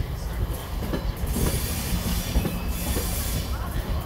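Vitória a Minas passenger train coaches rolling past at low speed: a steady low rumble of wheels on rails with a few knocks, and a hiss that swells for a couple of seconds midway.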